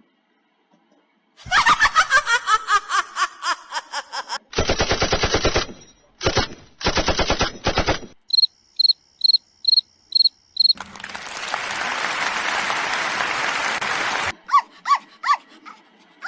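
A run of short, unrelated sound effects played one after another. First a rattle of rapid clicks, then two rapid-fire rattles and six evenly spaced high beeps. Next comes about three and a half seconds of steady hiss, and last a few short chirps.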